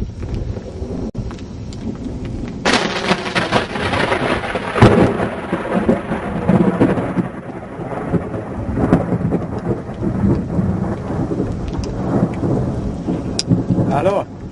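Thunder cracks about three seconds in and rolls on for several seconds, fading gradually, over steady rain.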